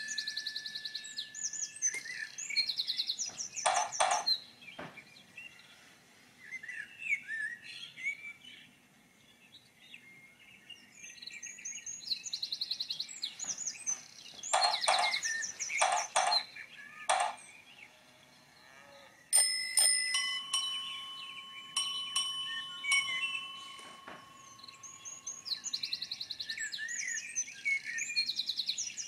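Recorded birdsong ambience played through a small Bluetooth speaker: bursts of chirping and trilling birds. Around two-thirds of the way through come a few sharp bell-like strikes that leave long ringing tones.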